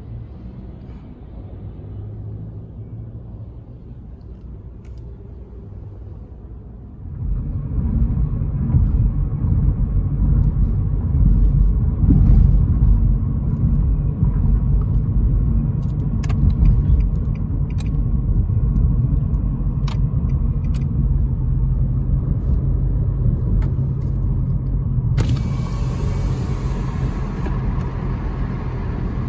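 A car's road and engine noise: a steady low rumble that grows much louder about seven seconds in.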